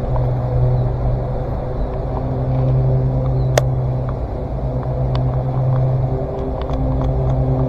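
Mercury 60 HP four-stroke outboard running steadily with a low hum, and a single sharp click about three and a half seconds in.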